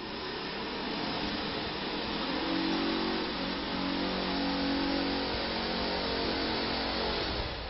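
A 2005 Ford F-150's 5.4-litre V8 running, revved up and let back down about twice in the middle.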